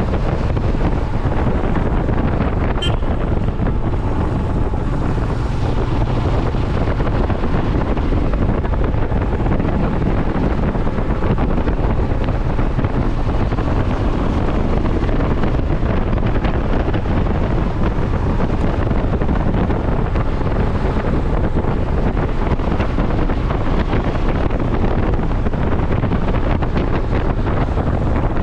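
Steady wind buffeting on the microphone of a moving motorcycle, with the ride's road and engine noise underneath. A faint short click comes about three seconds in.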